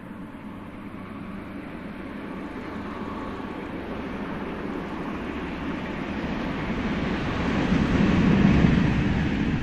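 Electric locomotive hauling a passenger train, approaching and passing. A steady rumble of wheels on the rails grows louder and is loudest about eight seconds in as the locomotive goes by.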